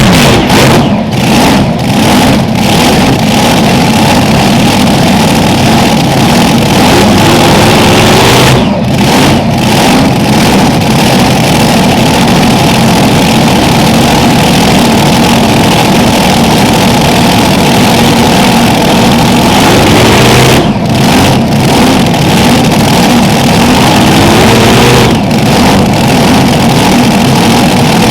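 Unlimited modified pulling tractor's engines running very loud and steady, with the pitch rising a few times and brief momentary dips in the high end.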